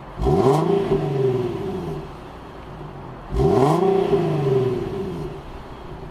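2015 Infiniti Q60S's 3.7-litre naturally aspirated V6 revved twice while parked: each time the engine note jumps up sharply and then falls back to idle over about two seconds. The first rev comes right at the start and the second about three seconds in.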